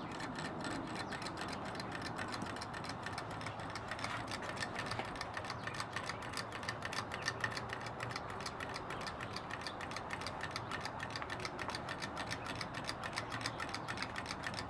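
Small homemade Stirling engine running steadily on candle heat, its wire-linked crank and flywheel mechanism making a rapid, even ticking.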